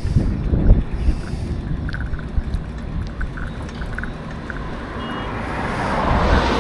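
Road traffic heard from a moving bicycle, with wind buffeting the microphone in a gusty low rumble. A passing vehicle's noise swells near the end.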